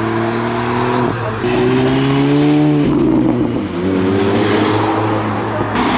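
Car engine accelerating hard through the gears: the revs climb steadily three times, dropping sharply at each upshift, about a second in and again near three seconds. A steady low engine drone runs underneath.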